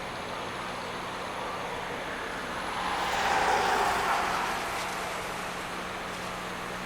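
A vehicle passing by: its noise swells to a peak about three and a half seconds in, then fades away.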